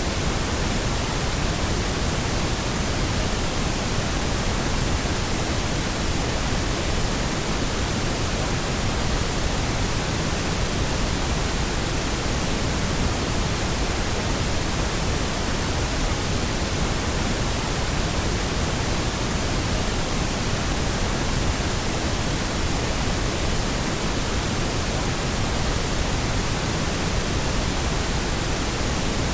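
Steady pink noise: an even, unchanging hiss across the whole range with no events or changes.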